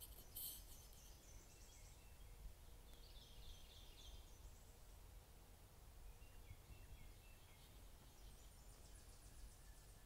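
Faint woodland birdsong: a few high chirps at the start, a trill about three seconds in, and another high trill near the end, over a low rumble.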